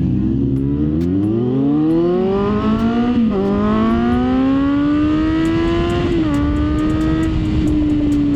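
Kawasaki Z900's inline-four engine accelerating, its pitch climbing steadily with two quick upshifts about three and six seconds in, then holding a steady cruise with low wind noise underneath.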